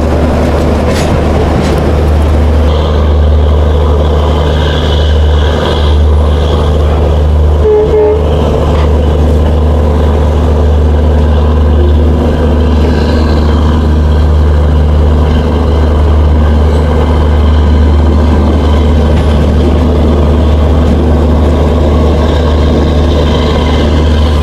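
Moving passenger train heard from an open coach door: a steady, loud low rumble from the running train. A brief short tone sounds about eight seconds in.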